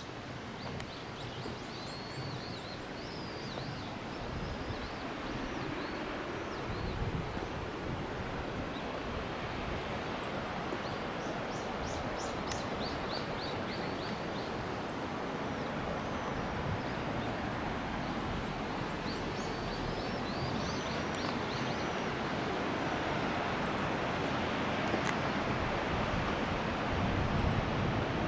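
Rushing water of a waterfall and mountain stream, a steady roar that grows slowly louder. A few groups of short high chirping calls sound over it, about a second in, near the middle and again a little later.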